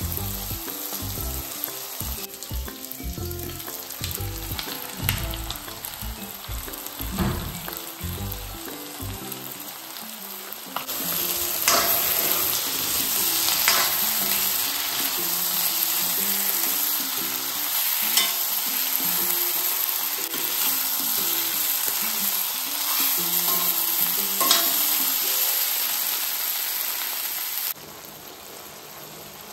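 Chicken liver and ridge gourd frying in a pan, sizzling steadily while being stirred, with low knocks of the utensil at first. About eleven seconds in the sizzle turns louder and brighter with occasional scraping strokes, then drops away sharply near the end.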